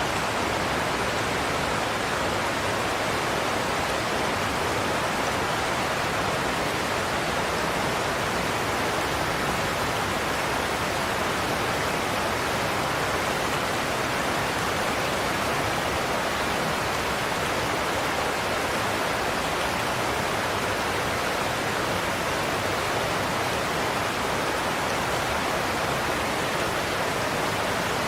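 Godafoss waterfall pouring in a steady, unbroken rush of falling water.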